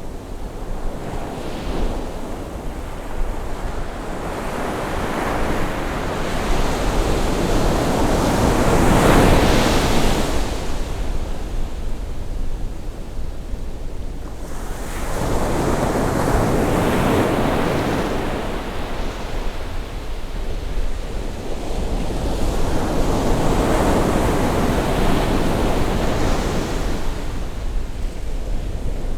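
Sea waves breaking and washing ashore on a rising tide, swelling and falling back about every seven seconds, with a steady low rumble of wind on the microphone.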